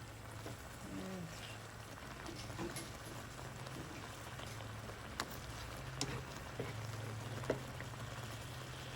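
Chicken and broccoli simmering in sauce in a pan, a faint steady bubbling over a low hum, with a few sharp clicks about five, six and seven and a half seconds in.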